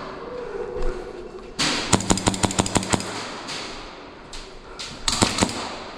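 Airsoft gun firing a fast full-auto burst of about ten shots in one second, then a short burst of three or four shots near the end.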